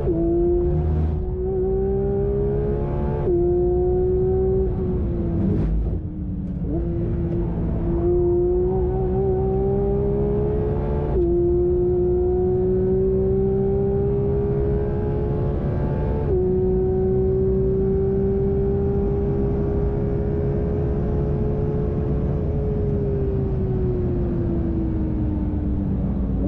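Performance car's engine at full throttle on a track lap, heard on board. The pitch climbs and drops back at upshifts about 3, 6, 11 and 16 seconds in, holds nearly steady at high speed, then falls over the last few seconds as the car slows.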